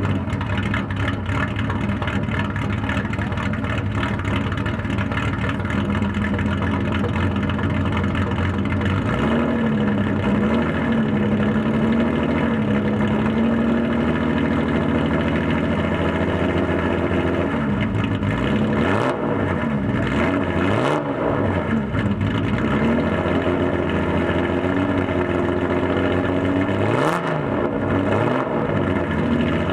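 Older Nissan Skyline's engine running loud, first at a steady speed, then held at raised revs, then blipped up and down several times in quick succession, with one more sharp rev near the end.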